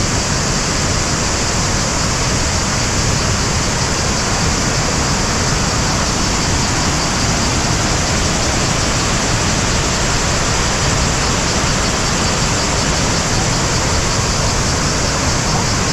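Waterfall rushing: a loud, steady, even noise of falling water with no breaks.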